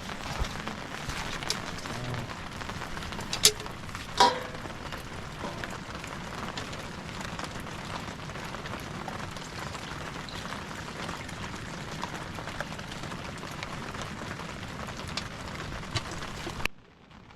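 Steady rain falling and pattering on surfaces, with two sharp knocks about three and a half and four seconds in. The sound cuts off suddenly just before the end.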